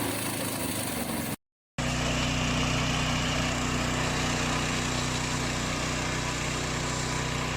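Remote-controlled flail mower's engine running steadily, cut off by a brief moment of silence about a second and a half in, then running on at an even pitch.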